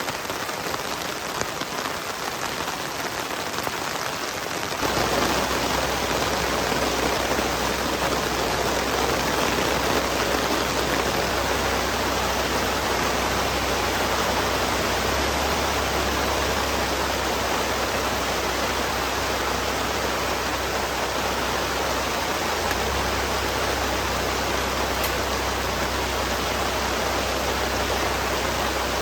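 Heavy rain falling steadily. About five seconds in it gets louder and fuller, with a low steady rumble underneath.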